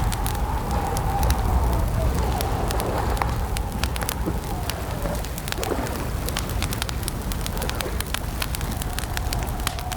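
Campfire crackling: many sharp pops and snaps over a steady low rumble. A drawn-out, wavering tone runs beneath it, fading out about halfway and coming back near the end.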